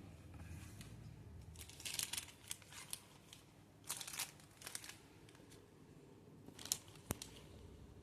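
Small objects being handled: several short bursts of crinkling and rustling, like plastic being handled, and one sharp click near the end. No grinder is running.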